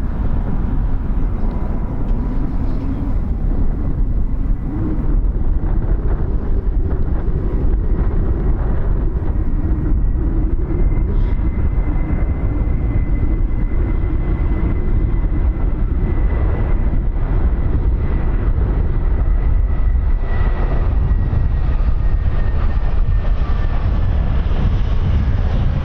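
Aircraft engine noise: a steady loud rumble with a faint high whine that slowly falls in pitch over the second half.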